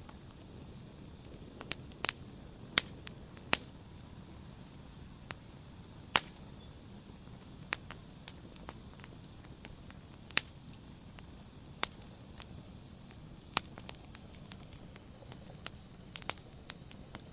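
Wood fire in a fireplace crackling: irregular sharp pops and snaps from the burning logs over a soft steady hiss, with a handful of louder cracks a second or more apart.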